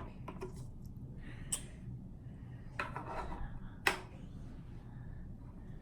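Plastic parts of a cool mist humidifier clicking and knocking as they are handled and fitted, a few separate clicks over a low steady hum.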